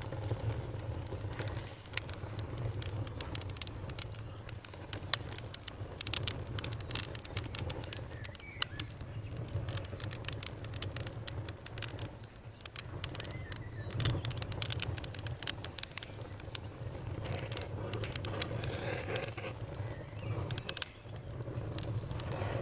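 Campfire crackling and popping, with many sharp snaps over a steady low rumble of the burning fire. Frogs call faintly in the background.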